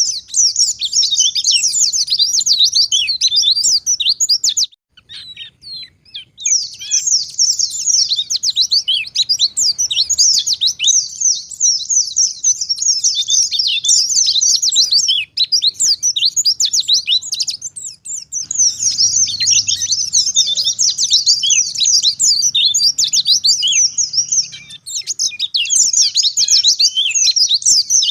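White-eye (pleci) singing a fast, continuous twittering song of rapid high chirps. It breaks off briefly about five seconds in, then resumes.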